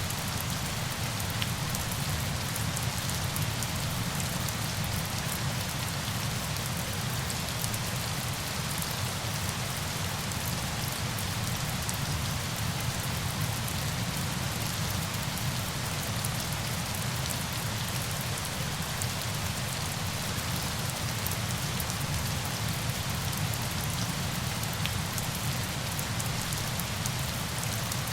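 Steady falling water, a continuous even hiss with fine pattering drops and no change in level throughout.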